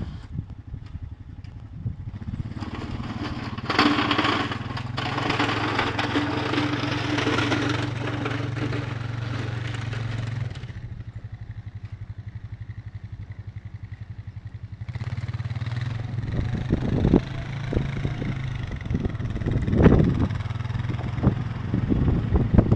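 An engine running steadily, with a loud rushing noise over it from about three to ten seconds in and scattered knocks near the end.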